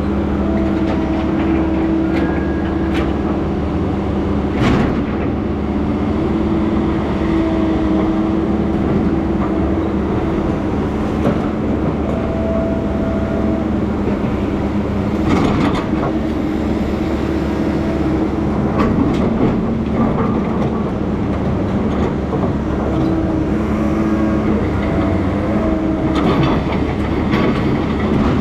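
Heavy diesel engine of logging equipment running steadily, with a few metallic clanks now and then.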